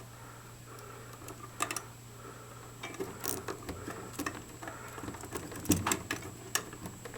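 Scattered small clicks and rustles from hands handling electrical wiring and connectors, growing busier partway through, over a steady low hum.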